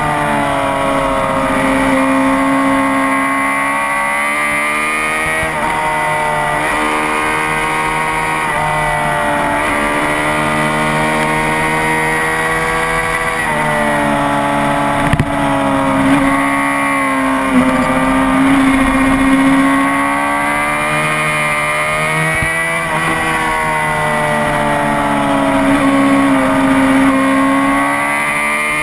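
Honda CBR600RR's inline-four engine at high revs on a race track, the pitch climbing and dropping repeatedly through gear changes with short steady stretches between, under a rush of noise. A couple of brief knocks about halfway through.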